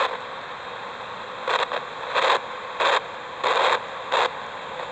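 Spirit box sweeping through radio stations: a steady hiss of static broken by five short bursts of louder static.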